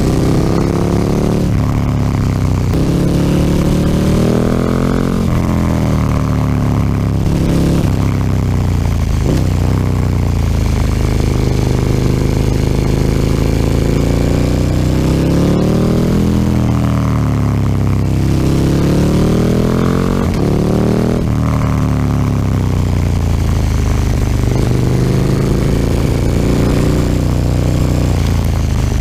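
KTM 1290 Super Duke R's V-twin breathing through an Akrapovic slip-on exhaust, heard on board while riding. The engine note climbs and falls again and again as the bike accelerates and rolls off, with one long steady pull near the middle.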